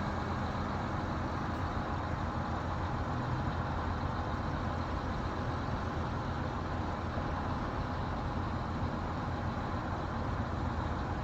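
Heavy construction machinery running steadily, an even low diesel engine rumble.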